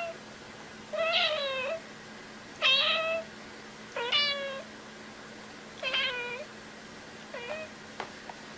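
A domestic cat meowing repeatedly: about five short meows, each around half a second long, one every second and a half or so.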